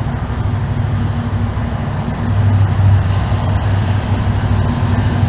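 Norfolk Southern empty coal train rolling past: a steady rumble of wheels on rail with a low drone, a little louder about halfway through.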